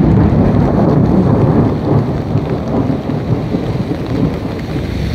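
Torrential rain pouring onto flooded pavement: a loud, dense, steady rushing with a deep low end, easing slightly after the first couple of seconds.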